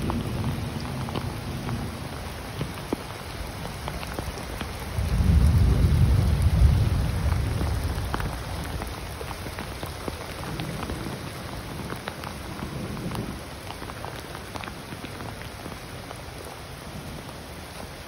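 Steady rain falling, with many close raindrop ticks. A low rumble swells about five seconds in and dies away over the next few seconds.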